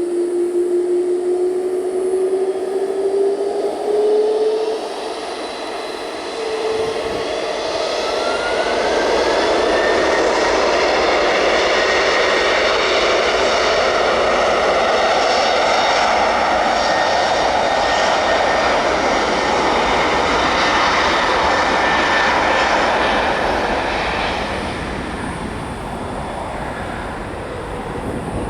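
Jet airliner passing close by: its engine roar builds over the first ten seconds, with a rising whine settling to a steady high pitch, stays loud and even, then fades after about twenty-four seconds. A lower rising hum is heard in the first few seconds.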